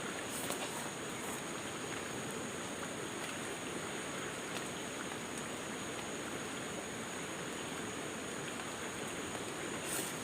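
Steady rushing noise like running water in a forest stream, with a steady high whine over it.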